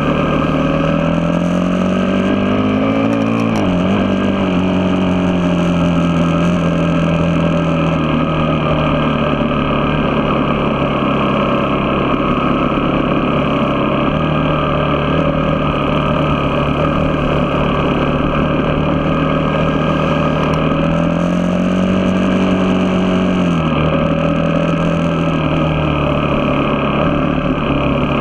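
A vehicle engine running while driving. Its pitch rises under acceleration and falls sharply at a gear change, once a few seconds in and again near the end, and holds steady in between.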